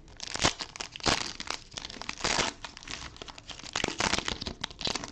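Cellophane wrapper of a football trading card cello pack crinkling and tearing as it is opened by hand, in irregular crackling bursts.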